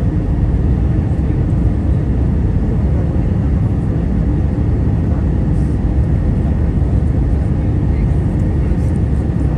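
Steady drone of an Airbus A320-200 heard from inside the passenger cabin: engine and airflow noise, a low even rumble with a faint high tone above it.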